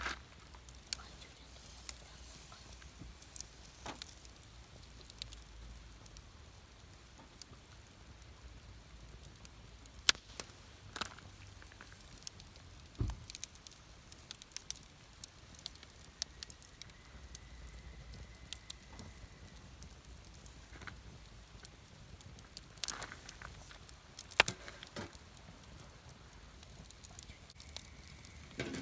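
Wood campfire crackling, with irregular sharp pops and snaps, the loudest about ten seconds in and again near the end, over a faint low rumble.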